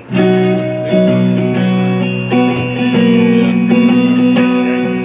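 Guitar chords strummed and left ringing, a new chord about every second, opening a song on stage.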